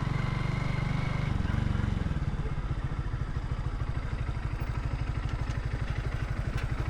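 Motorcycle engine running steadily, then easing off about two seconds in and settling into an even, pulsing idle.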